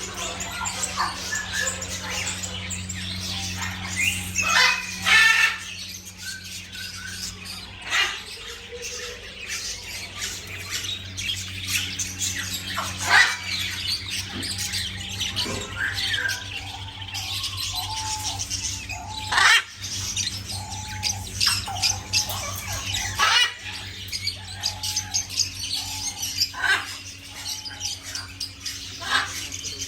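Many caged birds calling at once, with several loud, sharp squawks standing out, over a steady low hum. In the second half one bird repeats a short note over and over.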